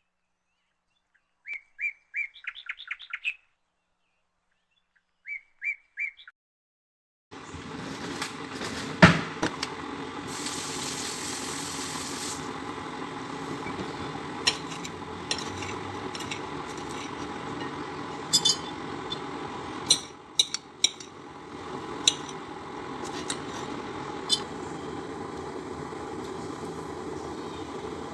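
A bird chirping in two short runs of quick notes. From about seven seconds in, a steady background noise with scattered clicks and knocks takes over, with one sharp knock just after that and a brief high hiss lasting about two seconds.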